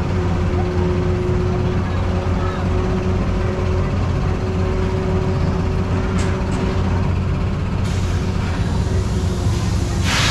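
Hurricane carnival ride's machinery running with a steady low rumble and hum, with a short hiss of released air right at the end.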